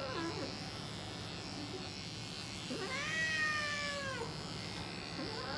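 Grey cat meowing: a short cry at the start, one long drawn-out meow in the middle that dips in pitch at its end, and another cry starting near the end.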